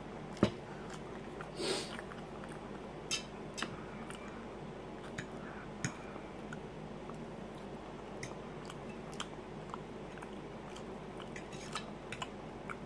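A person chewing food with small mouth sounds, over scattered light clicks of a metal fork against a plate. The loudest is a sharp click about half a second in.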